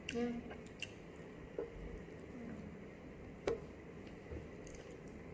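Close mouth sounds of a person eating: wet chewing with lip smacks, and a few sharp clicks, the loudest about three and a half seconds in.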